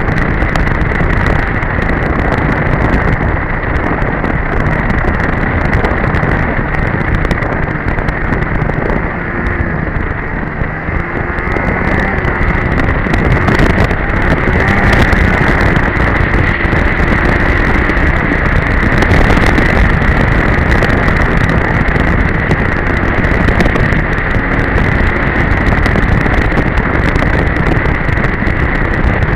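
Polaris Edge snowmobile's two-stroke engine running under way, with heavy wind noise on the mic. It eases off slightly about ten seconds in, then picks up again.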